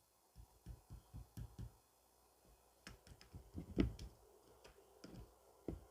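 A series of soft, irregular taps and clicks, a few in quick succession early and a denser cluster in the middle, the loudest just before the four-second mark.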